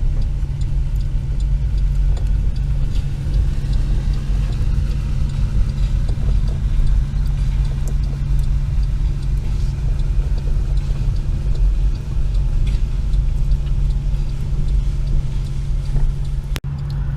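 Steady engine and road rumble inside a car cabin while driving, with the faint regular ticking of the hazard-light flasher.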